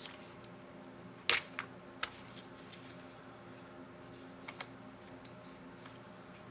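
Craft materials being handled on a work table: one sharp click about a second in, then a few lighter clicks and taps, over a steady low electrical hum.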